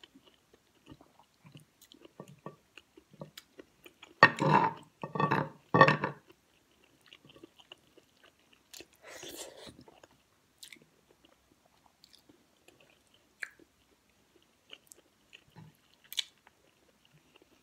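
A person chewing and eating a soft, saucy kare-kare stew with rice, with wet mouth clicks throughout. About four seconds in come three louder mouth sounds in quick succession, and a breathy rush follows a few seconds later.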